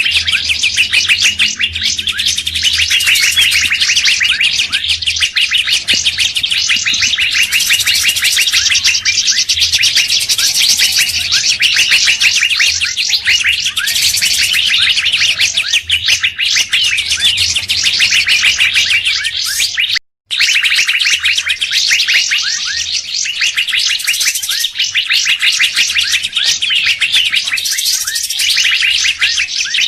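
Bird-lure recording of dense, unbroken chirping and warbling from several songbirds at once, the mix of Asian fairy-bluebird, leafbird, drongo and other calls used to draw wild birds in. It cuts out for a split second about two-thirds of the way through, then carries on.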